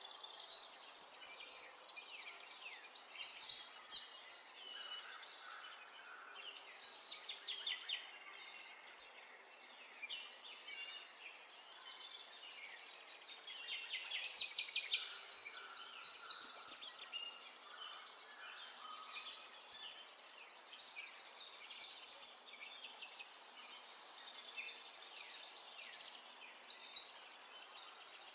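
Wild birds singing: short, high-pitched song phrases, each about a second long, repeated every two to three seconds over a faint, steady outdoor background noise.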